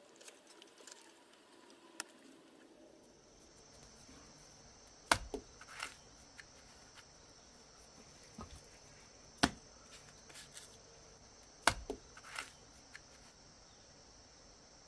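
Three sharp knocks from hand-tool strikes, spaced a few seconds apart, each followed by a lighter knock or two. A faint steady high hiss sets in about three seconds in.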